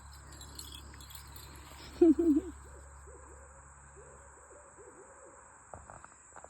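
Owls hooting: one louder call about two seconds in, followed by a run of fainter rising-and-falling hoots.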